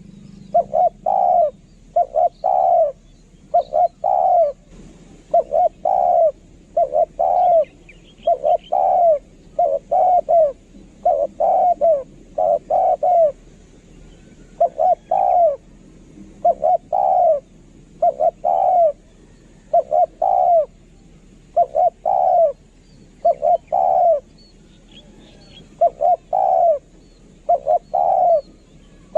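Spotted dove cooing over and over, each phrase a few short arched coos, repeating about every second or so. Faint chirps of a small bird come in twice.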